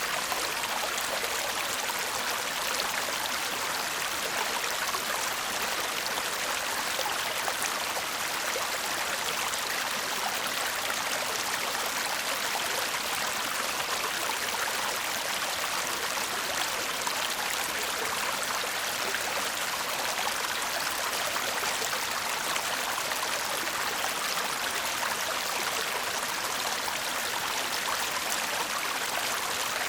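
Shallow stream murmuring steadily over stones, an even, bright rush of water.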